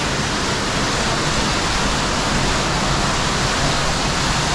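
Underground waterfall in a cave: falling water making a loud, steady rush, which a caver calls intense.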